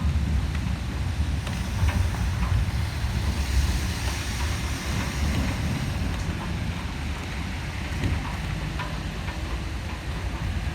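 Rainstorm with gusty wind: a steady hiss of rain, with wind buffeting the microphone in a deep rumble. The hiss swells a few seconds in and then eases.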